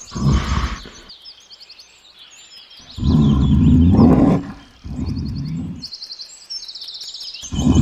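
A large animal growling in four deep calls of about a second each, while birds chirp steadily in the background.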